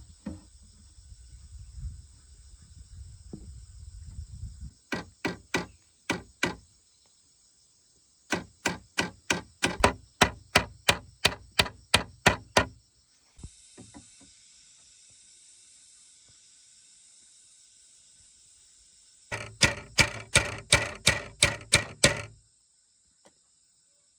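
A hand tool strikes wood in quick runs, about three to four sharp blows a second, with pauses between the runs. A steady high whine runs underneath.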